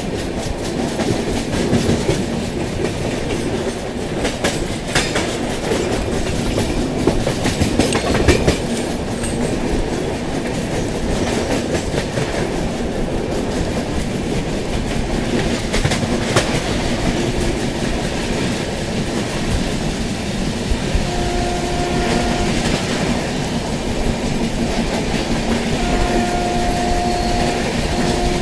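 Express train running along the track: a continuous loud rumble with the wheels clattering over rail joints. Two brief steady tones sound in the last third.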